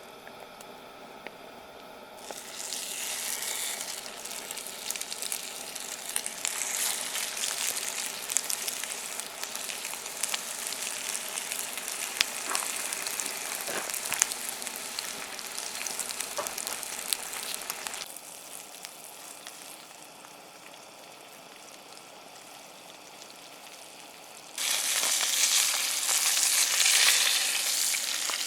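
Food sizzling and spitting in a hot pan over a campfire. The sizzle grows louder about two seconds in, drops back to a softer hiss midway, and turns loud again near the end.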